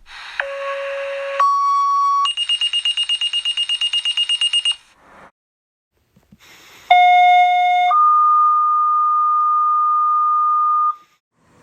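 Fire department radio paging tones: a sequence of steady beeping tones stepping up in pitch, then a fast pulsed tone, a pause, and a two-tone page of a short tone followed by a longer, steadier one, alerting companies to the call.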